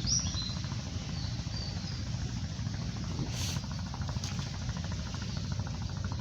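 A steady low rumble with a few short, high bird chirps near the start and again around two seconds in, and a brief hiss a little past three seconds.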